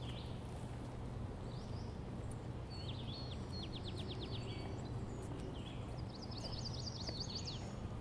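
A songbird singing two quick trills of short downward notes, about three seconds in and again near the end, over a steady low hum of distant city background noise.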